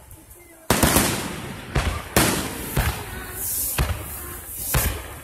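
Aerial fireworks shells bursting in a rapid series of sharp booms, about six of them starting about a second in, each trailing off in a rolling, echoing rumble.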